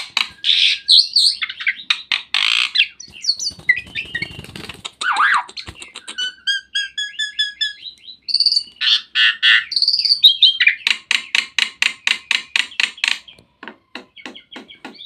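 A jalak (starling) singing a varied song of harsh chattering notes and clear whistled phrases, breaking about eleven seconds in into a fast run of sharp repeated notes, several a second, which then slow to spaced single notes.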